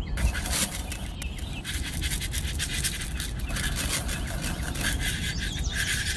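A small electric motor buzzing steadily, with scraping and clicking over it.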